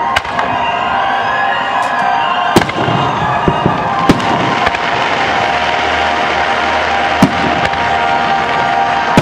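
Aerial fireworks in a grand-finale barrage: a dense, continuous crackle of many shells bursting together. Sharp single bangs stand out above it, the loudest about four seconds in.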